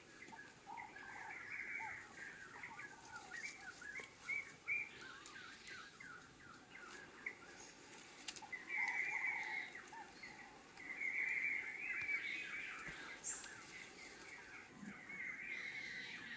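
Wild birds chirping and calling, with longer stretches of quick chattering about halfway through, again a little later, and near the end.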